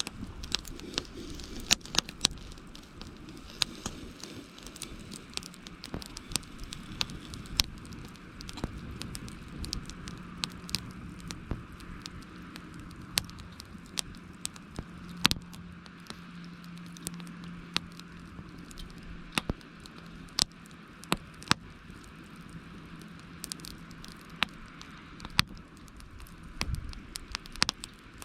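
Campfire of burning wood crackling, with irregular sharp pops over a steady soft hiss.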